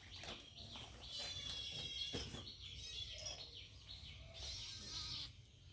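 Faint high-pitched bird chirps, several in a row, over a low background hum.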